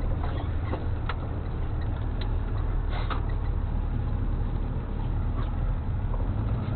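Flatbed tow truck driving, heard from inside the cab: a steady low engine and road rumble with scattered light clicks and rattles.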